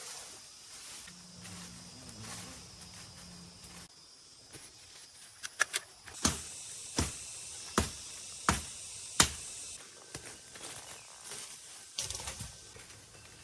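Steady high-pitched insect chorus, with a series of sharp knocks in the middle: three quick ones, then five evenly spaced strikes about two-thirds of a second apart, and a few lighter clicks near the end.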